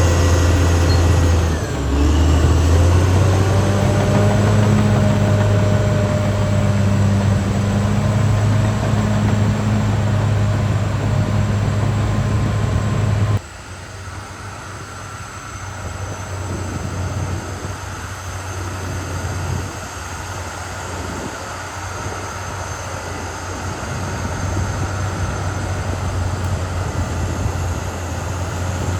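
Caterpillar D6R XL bulldozer's diesel engine running under load, its pitch dipping briefly about two seconds in and then recovering. About halfway through the sound drops suddenly to a quieter, steady engine note.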